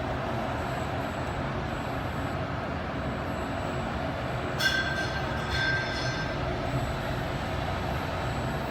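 Steady rumbling of a vehicle in motion, with a brief high squeal about four and a half seconds in.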